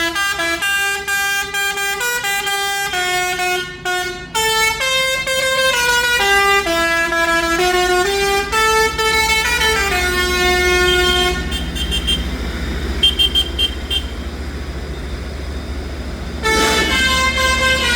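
A musical vehicle horn playing a tune note by note over the low rumble of passing engines. The tune stops for about five seconds midway, leaving only the engine noise, then starts again.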